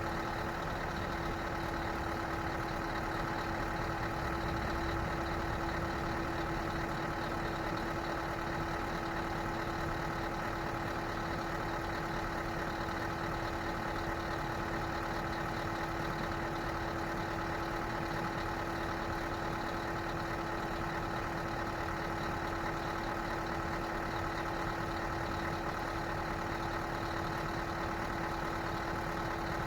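Scania R560 truck's V8 diesel engine idling steadily, with an even hum and no change in revs.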